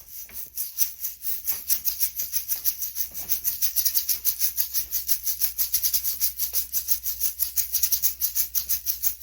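Hand shaker played in a steady, fast, even rhythm, each stroke a crisp rattle of grains.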